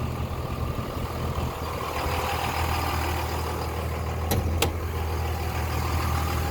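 A 2001 Dodge Ram 2500's 5.9-litre 24-valve Cummins turbo diesel idling steadily, shortly after a cold start. Two sharp clicks come close together about four and a half seconds in.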